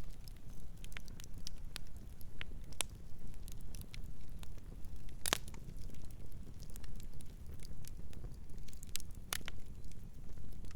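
Campfire burning with a steady low rumble and irregular sharp crackles and pops of burning wood, two louder pops about five and nine seconds in.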